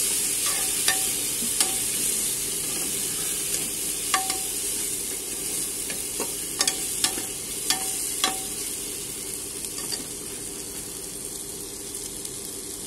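Onions and ginger-garlic paste sizzling in oil in a pressure cooker while being stirred with a metal spoon, which clinks against the pot about eight times in the first two thirds. The sizzle slowly grows quieter.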